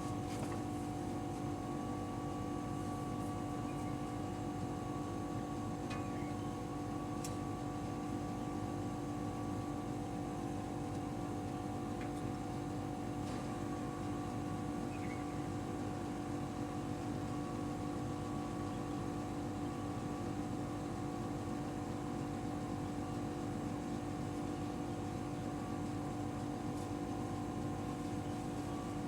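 A machine running with a steady, unchanging hum made of several fixed tones over a low rumble, with a few faint ticks.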